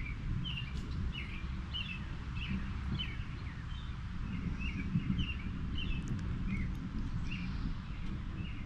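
Birds chirping, short repeated calls coming every half second or so, over a steady low rumble.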